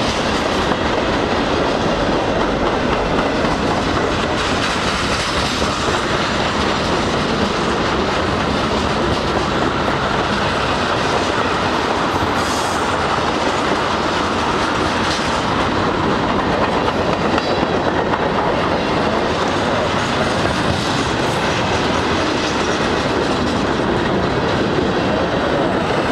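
Freight cars rolling past at close range: the steady rumble and clatter of steel wheels over the rail joints, with a faint steady high-pitched tone running through it.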